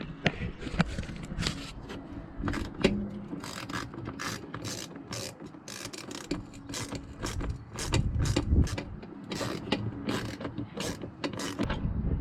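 Irregular, rapid mechanical clicking and rattling over a low rumble, as of hand tools or a ratchet being worked.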